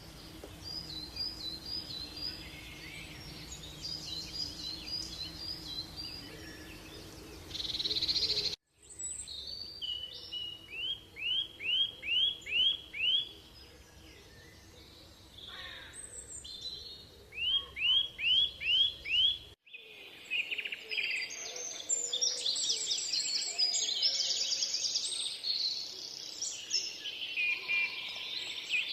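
Rainforest birds calling, in three stretches joined by abrupt cuts. First come repeated high chirps. Next, two runs of five or six loud, clear notes. Last, a dense chorus of many birds calling over each other.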